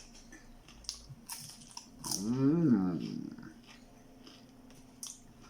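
Biting and chewing into crispy fried shrimp lumpia, a few crisp crunches at close range, with an appreciative "mmm" hum lasting about a second, starting about two seconds in.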